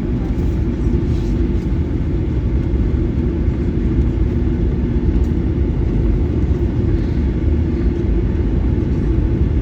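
Cabin noise inside a Boeing 737-900ER during taxi: a steady low rumble from the CFM56-7B engines at low thrust and the airframe rolling along, with no rise in level.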